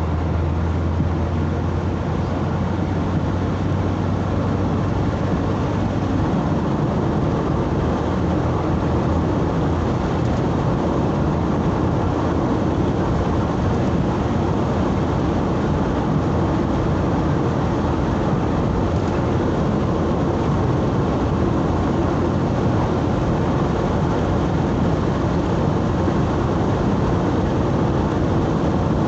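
Steady engine and road noise heard from inside a moving vehicle, with a low engine hum that changes about six seconds in.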